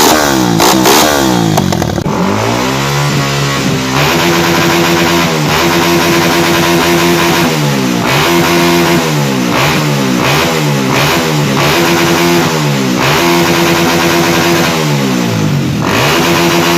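Motorcycle engine revved again and again: the pitch climbs, holds steady for about a second, then drops, repeating every one and a half to two seconds.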